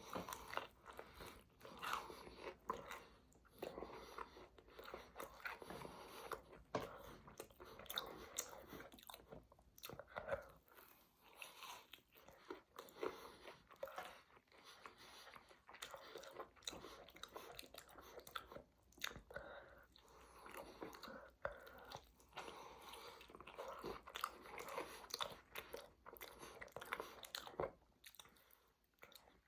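A person chewing and biting crunchy food close to the microphone, with irregular wet smacks and crunches.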